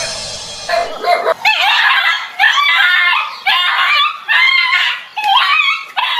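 Dog barking and yelping over and over in high-pitched, wavering calls, after a short hissing noise in the first second.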